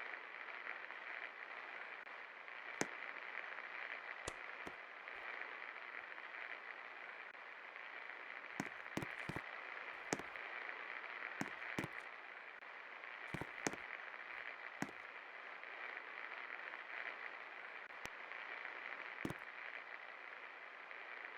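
48-inch Millat Standard ceiling fan running with a steady whir, with a dozen or so sharp clicks at irregular moments over it.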